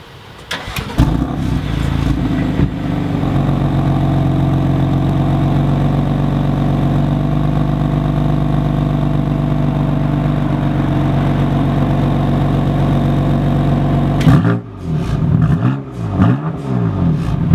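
A 2015 BMW M3 F80's twin-turbo inline-six on its stock exhaust starting up. It catches about half a second in and settles into a steady idle. Near the end it gives several quick revs that rise and fall in pitch.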